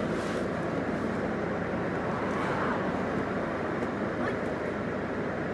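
Steady vehicle and street noise, an even low rumble with no distinct events.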